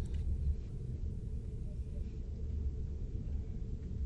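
Steady low rumble inside a passenger train carriage.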